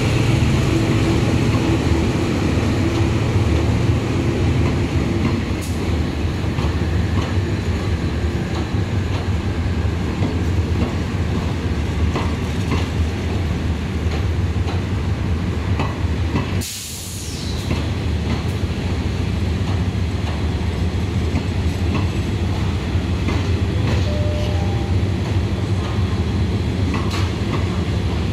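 Diesel train on the move: a steady low engine rumble with scattered clicks from the wheels on the track. The sound dips briefly about two-thirds of the way through, then the same running sound goes on.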